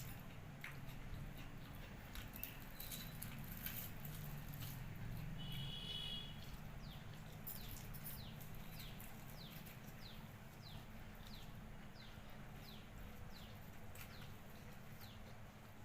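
Quiet eating sounds: faint clicks and smacks of chewing. In the second half, a short high falling chirp repeats about every half second.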